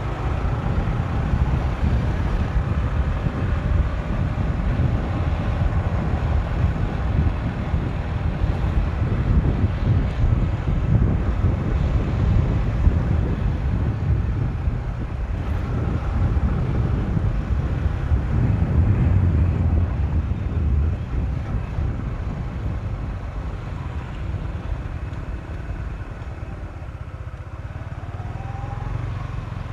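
Motorcycle riding at speed, heard mostly as heavy wind rumble on the microphone with the engine's note faint underneath. The rumble eases off about twenty seconds in.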